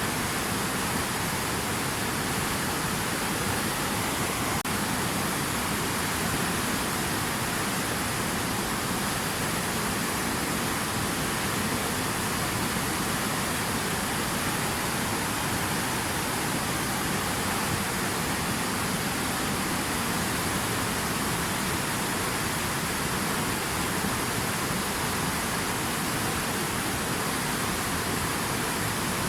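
Steady rushing water, an even unbroken roar of noise with no splashes or changes.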